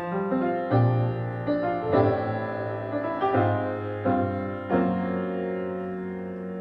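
Piano-like keyboard playing a slow passage of chords. It enters suddenly with about six struck chords over the first five seconds, and the last chord is left ringing.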